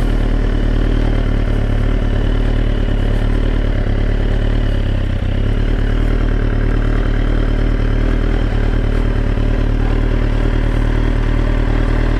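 2004 Kawasaki ZX-10R's inline-four engine running steadily at low revs, with no revving.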